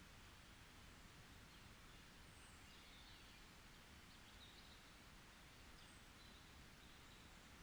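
Faint forest ambience: a steady soft hiss with a few short, high bird chirps scattered through it.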